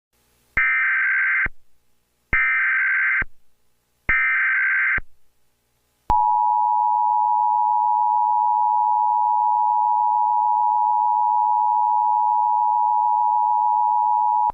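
Emergency Alert System tones. Three short bursts of SAME header data come about a second apart, followed by the EAS attention signal, a steady two-note tone held for about eight seconds.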